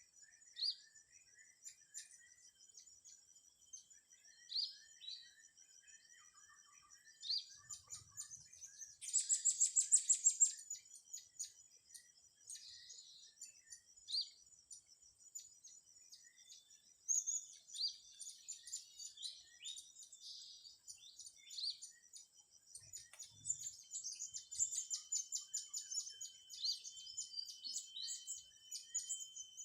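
Several small forest birds chirping and calling in short high notes over a steady high-pitched insect drone, with a loud rapid burst of chirps about nine seconds in.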